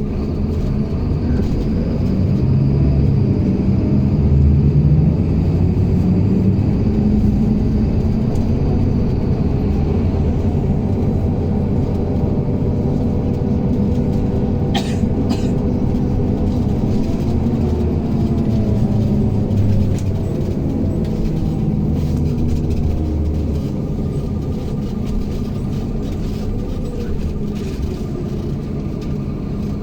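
Inside a MAZ-107 city bus under way: the engine and drivetrain run under a steady low rumble of road noise, the engine note rising and falling as the bus speeds up and slows. A couple of sharp clicks about halfway through.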